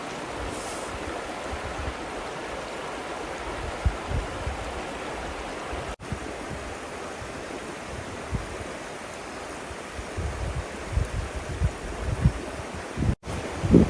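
Steady rush of flowing river water, with irregular low thumps of wind buffeting the microphone, heaviest near the end.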